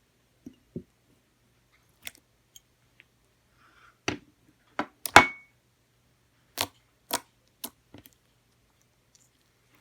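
A dozen or so short, sharp clicks and pops at uneven intervals, with a louder crackling pop about five seconds in.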